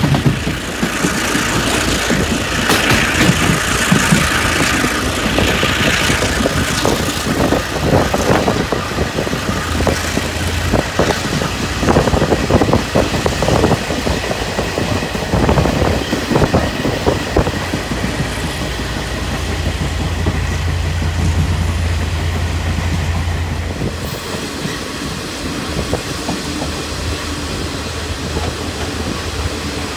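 Taiwan Railway ordinary-train coach with open windows running along the track: wheels clattering over the rails, and later a steady low hum. About three-quarters of the way through the running noise grows quieter as the train slows into a station.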